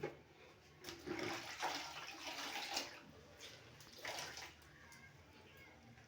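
Water splashing and trickling as a wet cloth is rinsed in a bucket of clean water, in two bouts: a longer one about a second in and a shorter one about four seconds in.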